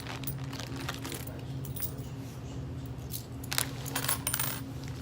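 Loose coins clinking as a handful of change is handled and counted. A cluster of louder clinks comes about three and a half seconds in, over a steady low hum.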